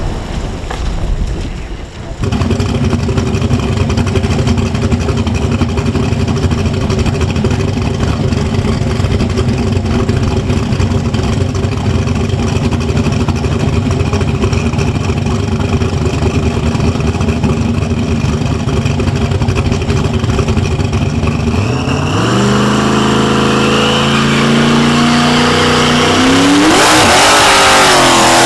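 Turbocharged truck engine running at a steady, lumpy idle, then accelerating hard about six seconds before the end, its pitch climbing in two steps and getting loudest in the last moments.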